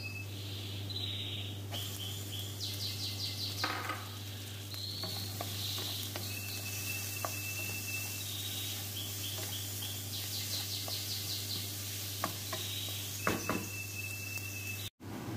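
Minced garlic and chopped onion sizzling in oil in a nonstick wok, stirred with a wooden spatula that knocks and scrapes against the pan now and then, over a steady low hum.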